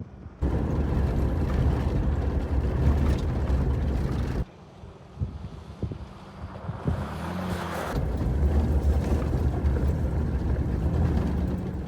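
Jeep Wrangler driving: steady low engine and tyre rumble with wind buffeting the microphone. It drops suddenly to a quieter stretch about four seconds in, then builds back up over the rest.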